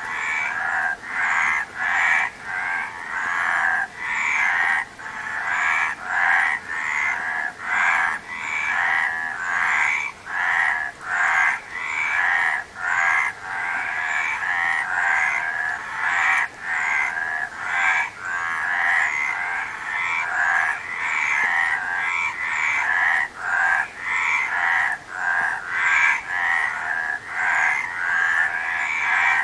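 A chorus of many frogs croaking together, calls overlapping without a break and rising and falling about twice a second.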